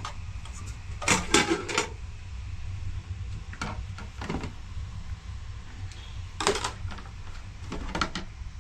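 Irregular knocks and clatters, a quick group of several about a second in and then single ones every couple of seconds, over a steady low rumble.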